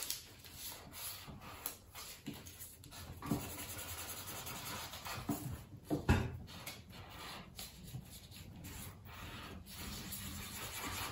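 Paper being rubbed and handled on a tabletop: soft scraping and rustling with scattered light taps.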